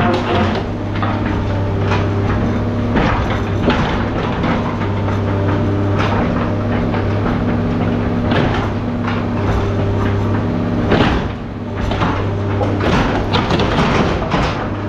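An engine running steadily with a low hum, under repeated clanks and knocks of scrap metal being handled, some in quick clusters.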